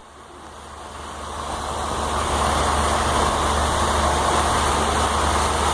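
Motorboat running at speed: a steady low engine hum under a constant rush of water and air, fading in over the first couple of seconds.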